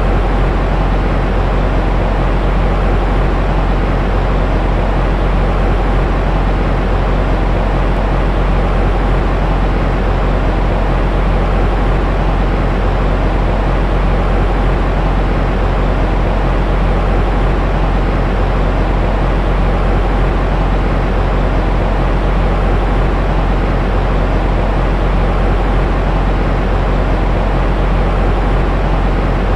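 Steady, unchanging white noise for lulling a baby to sleep, deep and rumbling with little hiss at the top.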